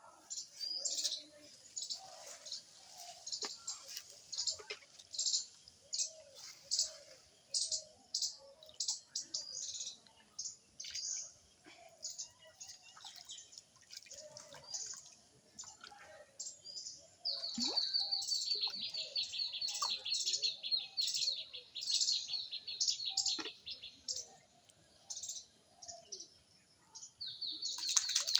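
Birds chirping with many short, high calls. About halfway through, a long rapid trill of repeated notes steps down in pitch and lasts several seconds, then starts again near the end.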